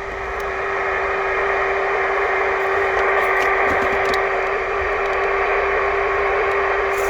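Two-way radio receiver hissing with band static on an open channel, with a steady low whistle tone running through the hiss and no voice coming through.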